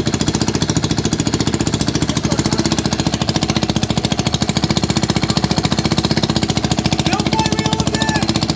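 Modified Briggs & Stratton single-cylinder engine running steadily with no flywheel, its high-compression firing a rapid, even pulse.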